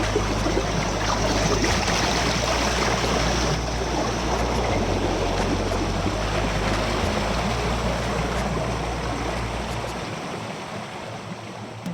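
Waterfall water rushing and splashing in a steady wash, fading somewhat near the end.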